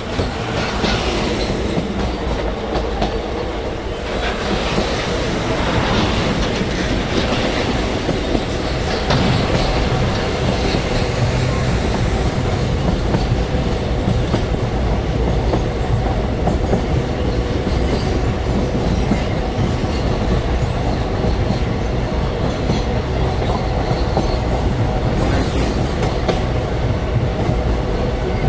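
Moving passenger train heard from inside a coach by the window: a steady rumble of wheels on the rails with a clickety-clack over the rail joints.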